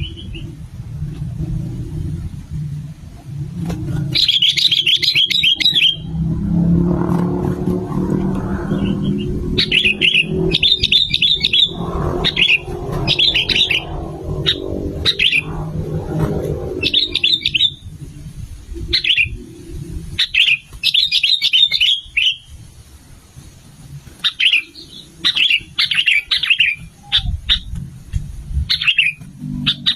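Sooty-headed bulbul (kutilang) singing: short, bright chattering phrases repeated again and again, starting a few seconds in. A low rumble runs underneath.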